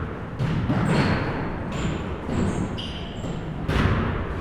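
Basketballs bouncing on a hardwood gym floor, several separate bounces, with short high squeaks of sneakers on the court, echoing in a large hall.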